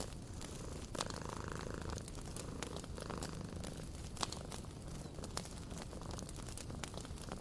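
Wood fire crackling in a fireplace, with sharp snaps and pops scattered through, over a steady low rumble.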